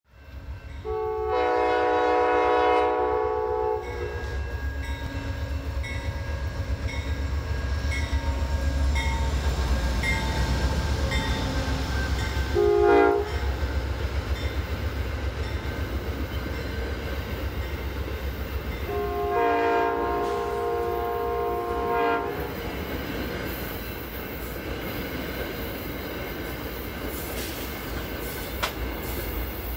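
Amtrak passenger train passing with a steady diesel and rail rumble, its multi-tone horn sounding a long blast near the start, a short toot about 13 seconds in and another long blast about two-thirds through. Near the end the passing coaches add sharp wheel clicks over the rail joints.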